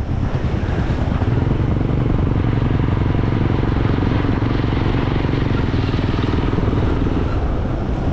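Motorcycle engine running steadily while being ridden, with an even low rumble.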